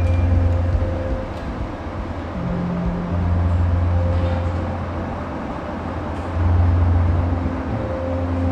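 Bus engine running, heard from on board: a steady low rumble with faint hum tones above it, growing louder about three seconds in and again a little after six seconds.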